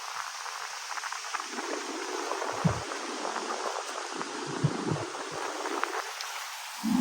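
Steady rush of heavy monsoon rain, with a few brief low thumps of wind buffeting the microphone.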